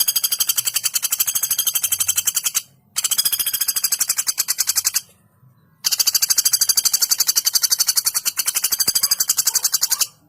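Female common flameback woodpecker giving long, rapid, high-pitched rattling trills, three runs of a few seconds each with short pauses between them.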